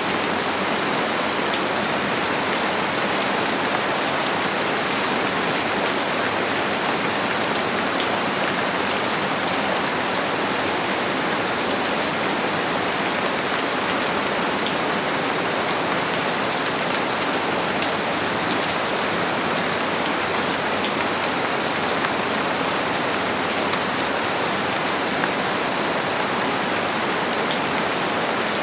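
Steady heavy rain falling, a dense even hiss with many individual drops pattering.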